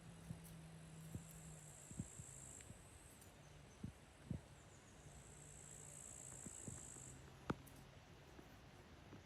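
Crickets chirping in long high trills that come and go, over a faint low hum. A few soft clicks sound through it, with one sharper click about seven and a half seconds in.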